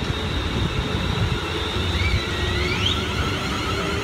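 London Midland class 350 electric multiple unit pulling away from the platform: a steady low rumble with a high whine that glides up in pitch about two to three seconds in.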